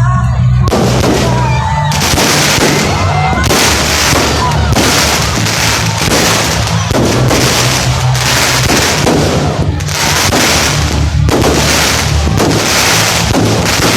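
Fireworks going off in a dense, continuous run of crackles and bursts, starting just under a second in, over steady bass-heavy music from a sound system.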